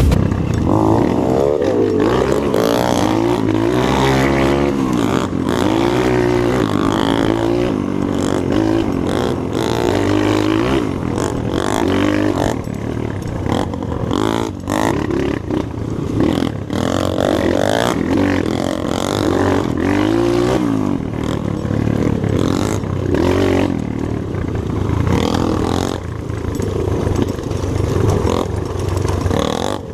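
Trail motorcycle engine, a Honda XR, running hard over a dirt track, its pitch rising and falling continually as the throttle opens and closes, with rattles and knocks from the bike on rough ground.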